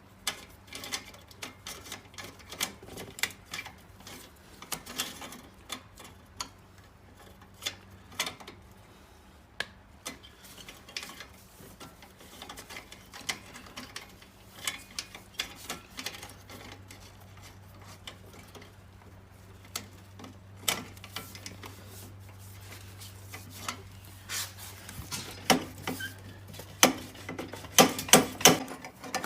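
Irregular metallic clinks and knocks of exhaust head pipe sections and clamps being handled and fitted together, over a steady low hum. The clinks come louder and closer together near the end.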